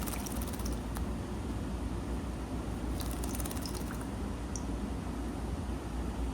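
Streak-eared bulbul fluttering its wings in two short bursts of rapid, crackly flapping about three seconds apart, over a steady low hum.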